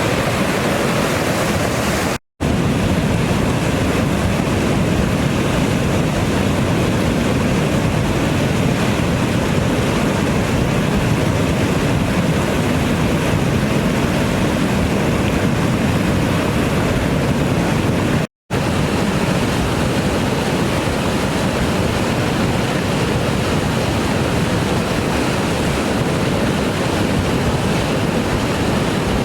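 Loud, steady rushing roar of a river in flood, heavy fast water. Twice the sound drops out to silence for a moment, about two seconds in and again past halfway.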